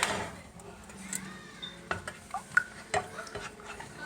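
Kitchen utensils clinking and scraping against pots and dishes, as in stirring: a few separate sharp clinks over the second half.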